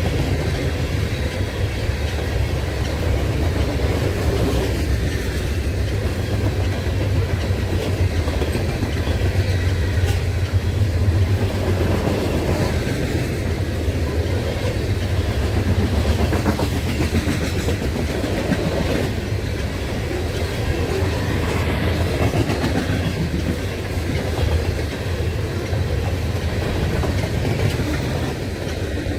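Railroad cars of a passing train rolling by, with a steady rumble and the wheels clattering over the rail joints.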